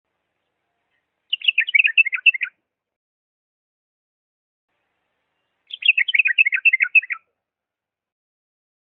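Diyala bulbul singing two short, quick warbled song phrases about four seconds apart.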